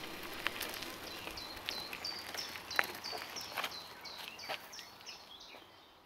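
A bird singing outdoors: a run of about a dozen short, high notes, each dropping in pitch, repeated about three times a second and fading away near the end. Scattered sharp clicks sound under it.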